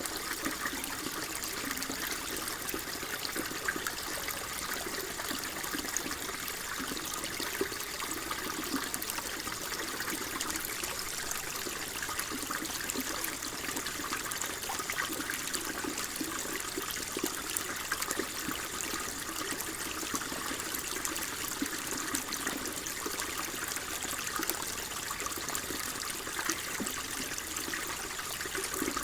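Water flowing and trickling steadily, with a fine bubbling babble throughout.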